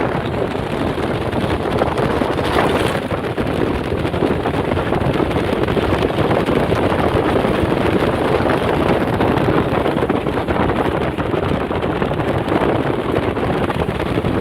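Steady running of a moving vehicle with wind buffeting the microphone, a continuous loud rush without breaks.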